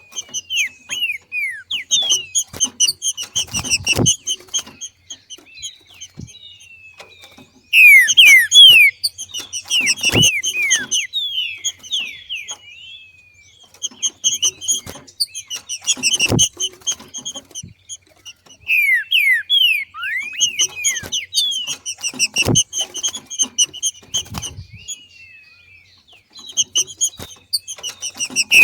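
Green-winged saltator (trinca-ferro) giving its 'macheado' call: bouts of rapid, high, downward-sliding chirps that come again every several seconds. A low thump sounds about every six seconds, four times.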